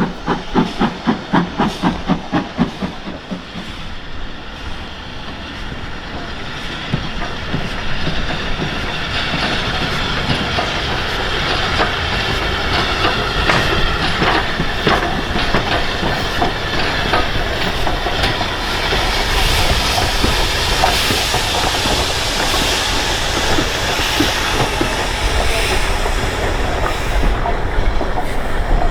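Steam locomotive working a train, its exhaust beating rapidly at about four beats a second for the first few seconds, then fading into the steady rumble of the carriages rolling past, wheels clicking over the rail joints and growing louder.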